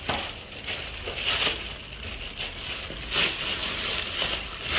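Irregular crinkling and crackling of a plastic dashboard overlay being handled, with a few louder crackles scattered through.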